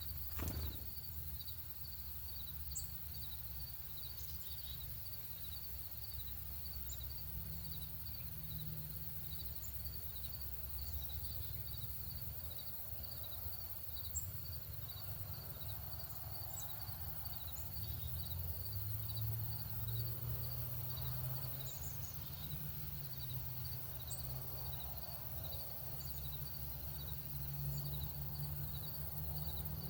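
Outdoor ambience: an insect, cricket-like, chirping high-pitched in an even, steady pulse, with short, sharp bird chip notes now and then, over a steady low rumble.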